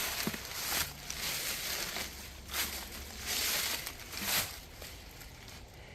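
Footsteps crunching and rustling through dry leaves and debris, in several uneven swells.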